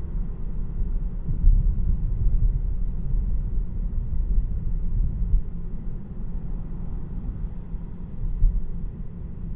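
Road and tyre rumble heard inside the cabin of a Tesla Model 3 electric sedan while driving: a steady low rumble with no engine note, swelling briefly a few times.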